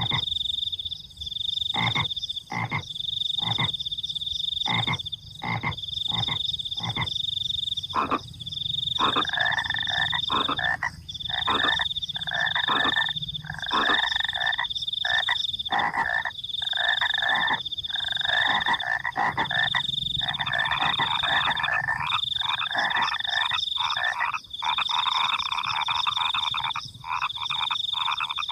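Frogs croaking at night over a high, steady cricket trill. For the first few seconds single croaks come one at a time; from about nine seconds in they build into a dense, continuous chorus. The cricket trill repeats in long pulses with short breaks.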